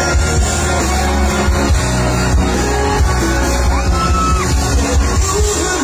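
Live concert music played loud through a PA system, heavy bass and a singer's voice, with some crowd shouting.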